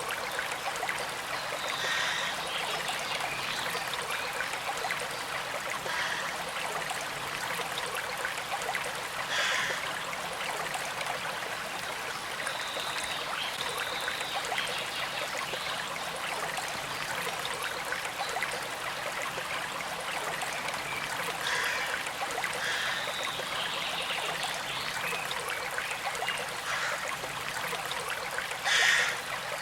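Small stream flowing steadily, a constant trickling rush with brief louder gurgles and splashes every several seconds; the loudest splash comes near the end.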